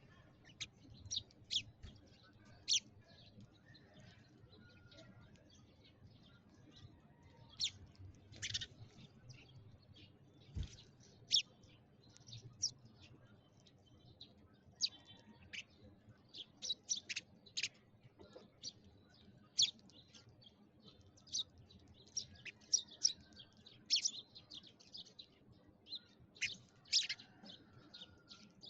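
Sparrows chirping: short, sharp chirps coming irregularly, sometimes in quick runs of several, over a faint steady background.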